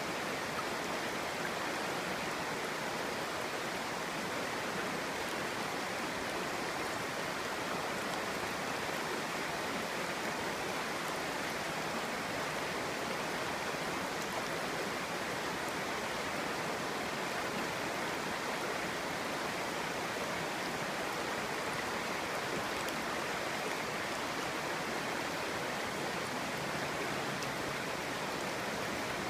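Clear shallow stream babbling and rushing over stones: a steady, even water noise.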